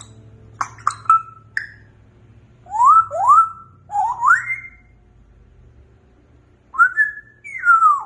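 African grey parrot whistling: a few sharp clicks, then a run of four rising whistles, and near the end a whistle that rises and then slides down.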